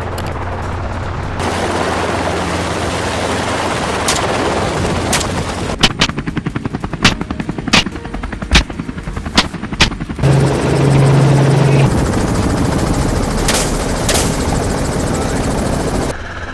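Helicopter rotor and turbine running steadily, with rifle shots fired from the aircraft: about a dozen sharp reports, several in quick succession through the middle and two more near the end.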